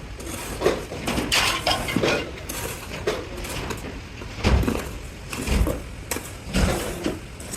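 Metal clanking and knocking at irregular intervals, with a few heavier thumps about a second apart in the second half.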